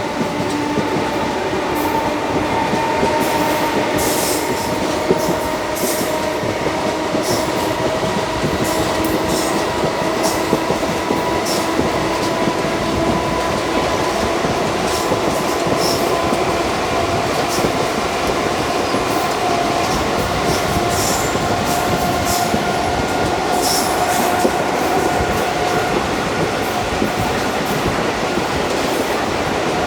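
ICF passenger coach of an express train running at speed on the rails: a steady rumble with scattered sharp clicks of the wheels over rail joints, and a whining tone that slowly rises in pitch, fading out near the end.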